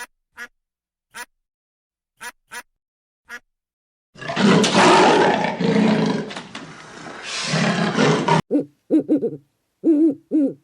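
A large animal's rough, noisy roar lasting about four seconds, after a few faint ticks. It is followed near the end by several short pitched hooting calls.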